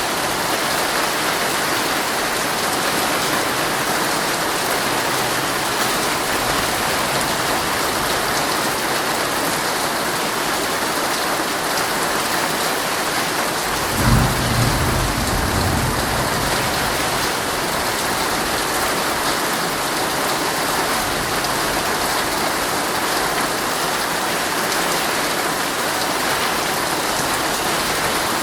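Heavy rain drumming steadily on a tent's fabric. About halfway through, a short low rumble of thunder.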